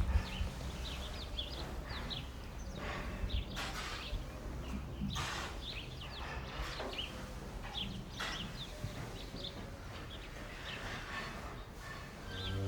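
Small birds chirping in short, scattered calls over a low steady rumble of outdoor background noise.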